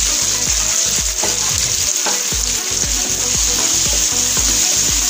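Small onions, curry leaves and dried red chillies sizzling steadily in hot oil in a kadai, stirred with a wooden spatula.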